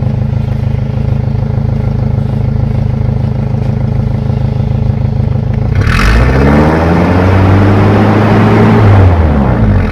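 Toyota Revo pickup's engine heard at the tailpipe, idling steadily, then revved once about six seconds in. The revs hold for a few seconds and drop back toward idle near the end.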